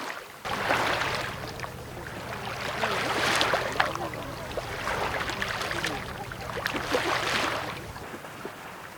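Lake waves washing onto the shore in repeated swells of rushing noise. Under them, a steady low hum starts suddenly about half a second in and stops near the end.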